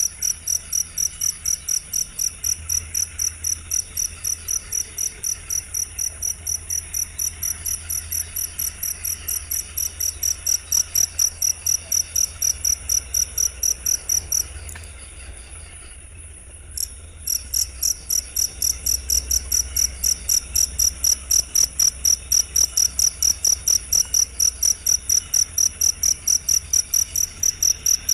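Cricket chirping in a fast, even series of high, pitched pulses, about four or five a second. The chirping pauses for about three seconds midway, with one lone chirp in the gap, then resumes.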